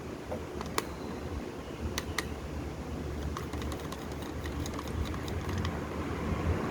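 Scattered sharp clicks and light taps over a low steady rumble: a few clear clicks in the first half, then a run of lighter ticks.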